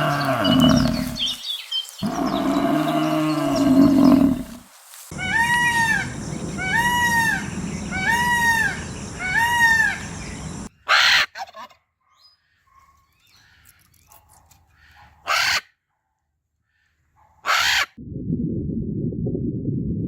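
Animal calls in a series: two drawn-out low calls, then four evenly spaced arched cries about a second apart. These are followed by a quiet stretch broken by three short sharp noises, and then a low steady rumble.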